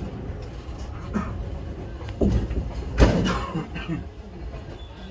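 Low rumble of a train creeping along during shunting, heard from inside the passenger carriage. A short knock comes about a second in and a louder, sharp knock about three seconds in.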